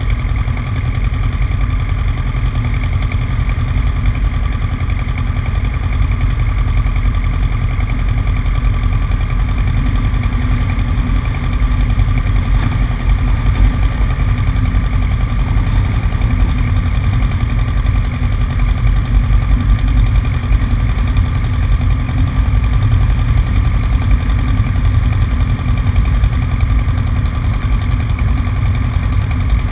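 Cessna 150's Continental O-200 engine and propeller running steadily, heard from outside on the wing, under a heavy low rumble of air on the microphone, with a steady high tone above. It gets slightly louder about twelve seconds in.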